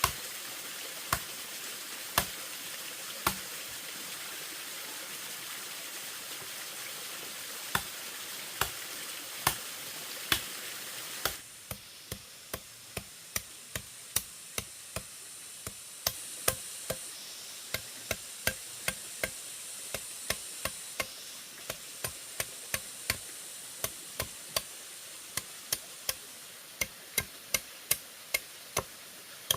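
Sharp wooden knocks of a blade chopping bamboo, a few spaced strokes and then a quicker run of about two a second, over a steady background hiss.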